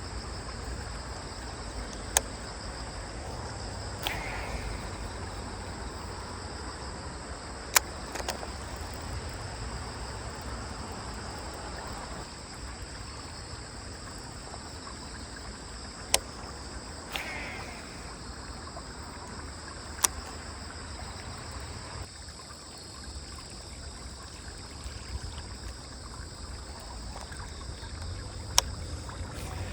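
Waterside outdoor ambience: a steady hiss with a thin, steady high-pitched trill, two short bird calls about 4 and 17 seconds in, and five sharp clicks scattered through it.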